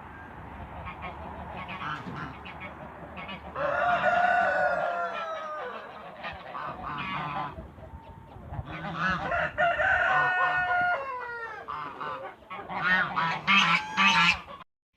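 Domestic fowl calling: long calls that fall in pitch about four seconds in and again around nine to eleven seconds, then a quick run of shorter calls, cut off abruptly just before the end.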